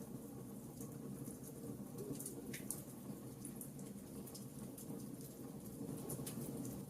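Wood fire crackling in a fireplace: scattered sharp pops and snaps over a steady low rumble of the flames, with one louder snap a little before the middle.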